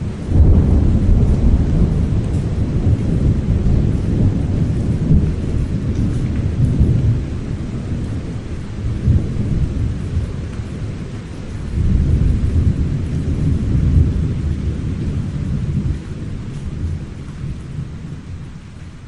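Thunder rolling and rumbling over steady rain, starting abruptly, swelling again about twelve seconds in, then slowly dying away.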